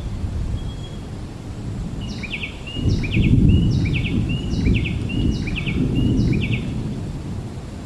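A bird sings a short chirping phrase over and over, about six times in quick succession, over a low rumbling noise that swells about three seconds in.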